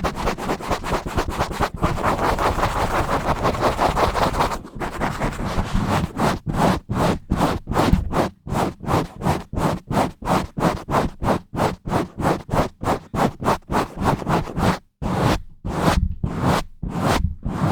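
Fast, aggressive scratching directly on a bare microphone, close and loud. It starts as a dense, continuous rapid scratching, then after a short pause breaks into separate rasping strokes, about three a second.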